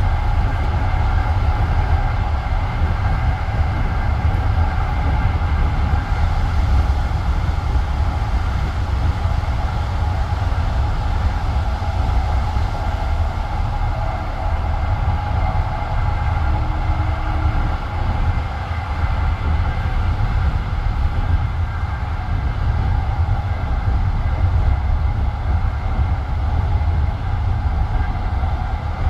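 Passenger train carriage running along the line, heard from inside at the window: a steady rumble of the wheels on the rails with a constant hum.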